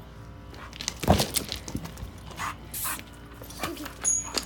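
Dogs moving about with footsteps and scuffling, and a loud thump about a second in.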